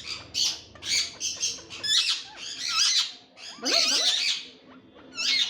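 Ringneck parrot chattering and squawking in a quick series of short, high-pitched calls, with a longer run of gliding calls about three and a half seconds in.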